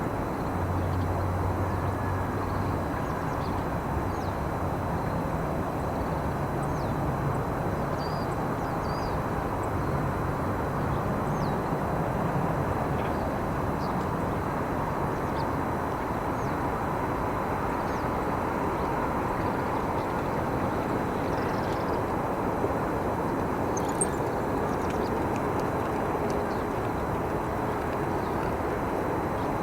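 Steady outdoor background rumble of distant engines, with faint, short, high chirps of small birds scattered throughout.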